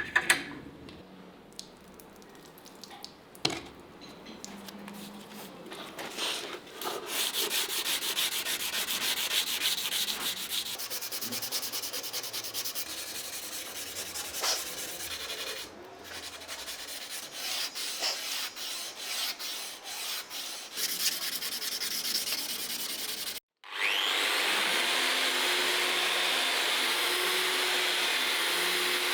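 Sanding: quick, rapid rubbing and scratching strokes of abrasive on the workpiece. After a sudden cut near the end, a steady power-tool whir takes over.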